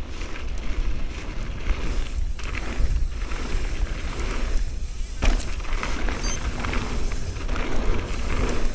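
Wind buffeting the microphone and knobby tyres rolling over a rough dirt trail as a mountain bike descends at speed, with a few sharp knocks from the bike over bumps.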